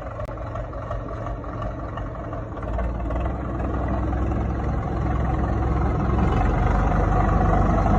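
HMT 5911 tractor's diesel engine running steadily, getting louder from about three seconds in and again near the end.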